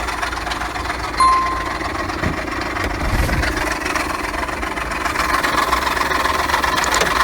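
A car engine idling, with a clattering, knocking noise from the belt-driven accessories. The owner traced it to a faulty ribbed (serpentine) belt pulley and idler pulley. A brief high-pitched chirp sounds about a second in, and the engine grows a little louder from about three seconds in.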